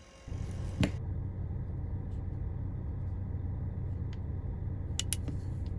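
Steady low rumble, with a sharp click about a second in and two more clicks near the end.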